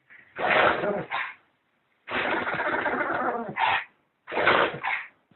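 A dog sneezing in three noisy bursts, the middle one longer, nearly two seconds.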